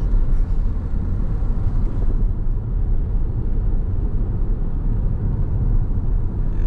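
A car driving along the road: a steady low rumble of engine and road noise.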